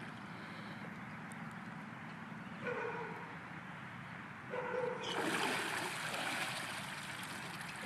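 Water sloshing and streaming around the sunk go-kart, growing louder and hissier about five seconds in.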